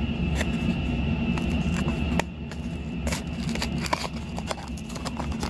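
Cardboard blind box being handled and opened: scattered crackles, clicks and scrapes of packaging. Under them runs a steady low background hum.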